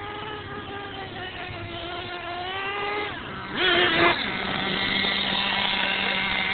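Radio-controlled monster truck's motor running, its pitch rising and falling as the throttle is worked. A short, louder burst comes about three and a half seconds in, then a steadier, lower hum.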